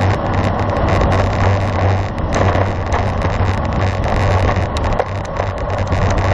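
Steady wind rush over the microphone with a constant low road hum, from a road bicycle riding at speed.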